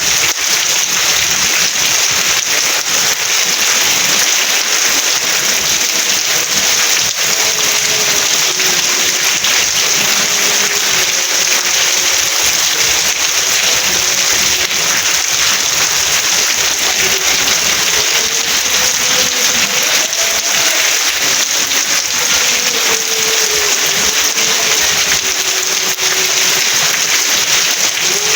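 Steady, heavy rain, an even hiss of falling drops. From about five seconds in, faint wavering tones drift beneath it.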